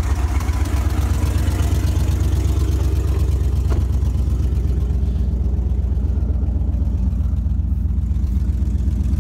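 Dodge Durango engine idling steadily with a low, even exhaust note, just after being started on jumper cables.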